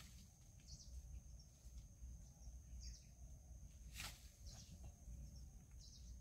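Near-silent outdoor background: faint short bird chirps every second or two over a steady thin high whine and low rumble, with one sharp click about four seconds in.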